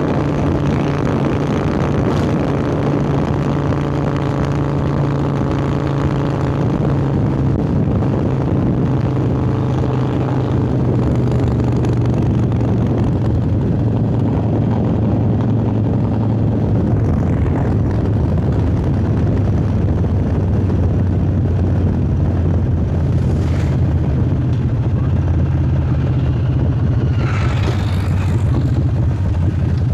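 Harley-Davidson Sportster 1200's V-twin engine through a Vance & Hines Hi-Output Grenades 2-into-2 exhaust, running steadily while riding. Its note drops a little about halfway through and then holds.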